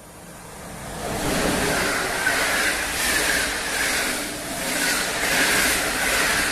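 Passenger train hauled by a Polish EP09 electric locomotive passing at speed: it grows louder over the first second as it arrives, then runs past with a steady rush of wheels on rail that swells and dips about once a second as the coaches go by.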